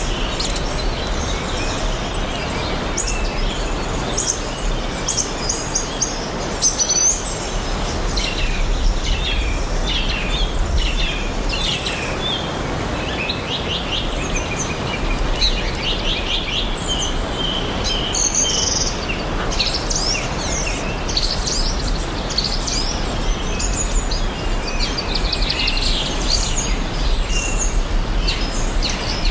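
A chorus of songbirds chirping and singing, many short high calls overlapping without pause, over a steady background hiss.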